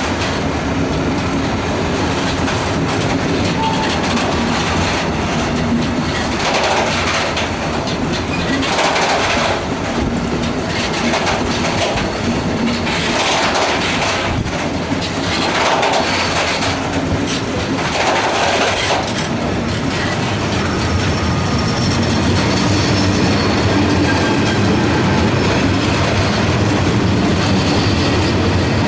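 Heavy ore freight train rolling past, its wagon wheels clattering over the rail joints, with louder surges of clatter every few seconds.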